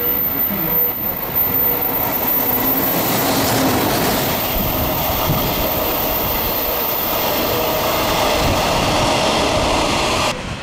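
Yokohama City Subway 4000-series cars, towed as freight behind a locomotive, running past close by at speed. Their wheels make a loud, steady rolling noise on the rails, which cuts off abruptly near the end.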